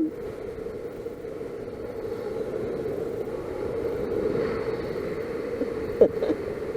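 A steady engine drone holding one pitch, under a rush of wind noise, with a brief sharp sound about six seconds in.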